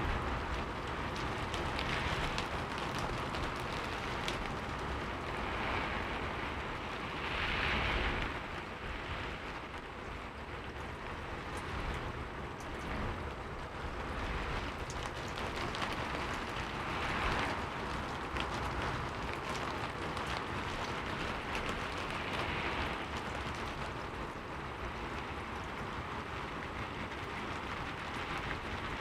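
Heavy rain falling steadily, with fine drop ticks and swells in intensity every few seconds.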